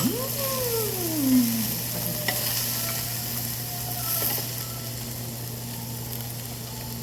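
Beef sizzling on a grill at the table, a steady hiss. A voice-like tone slides down in pitch over the first second and a half.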